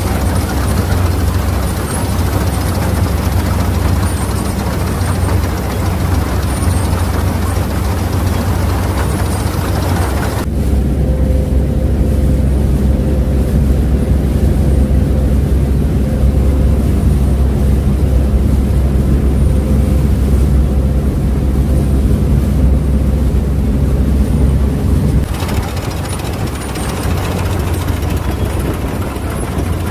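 Claas Mercator 50 combine harvester running steadily, its diesel engine and machinery making a continuous low hum with a rushing noise on top. About a third of the way in the sound turns abruptly muffled, only the low engine hum remaining, and the fuller sound returns a few seconds before the end.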